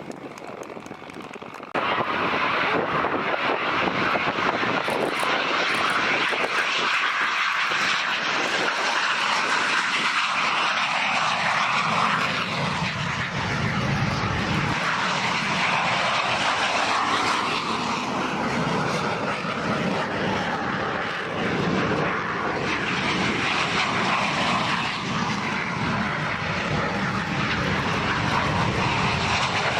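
Aermacchi MB-339 jets of the Frecce Tricolori, their engines running loud and steady; the roar starts abruptly about two seconds in, with a deeper rumble joining from about twelve seconds.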